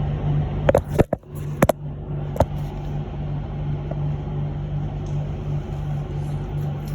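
Electric bus cabin noise while riding: a steady low hum, broken by a few sharp knocks or rattles in the first two and a half seconds.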